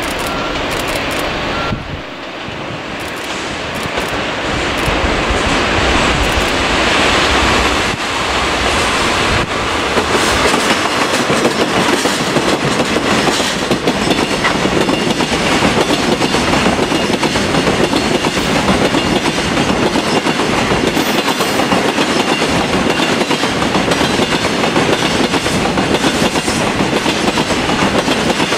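JNR Class DD51 diesel-hydraulic locomotive grows louder as it approaches and passes, hauling a freight train of tank wagons. From about ten seconds in, the wagons roll by with a steady, rhythmic clickety-clack of wheels over the rail joints.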